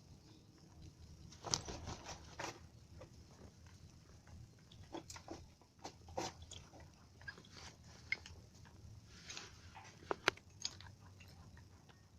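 Village chickens pecking at feed: irregular crunchy taps and clicks, a few louder ones about a second and a half in and about ten seconds in.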